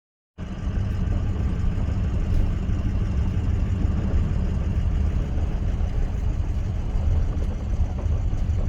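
A truck engine running steadily while driving, heard as a constant low rumble with road noise. It cuts in abruptly about half a second in.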